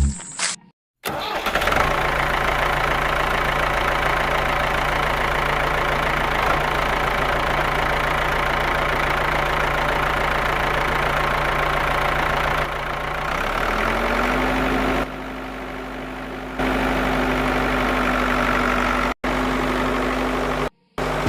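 A small motor running steadily with a constant hum and hiss; its pitch steps up about 13 seconds in. The sound is cut off abruptly a few times.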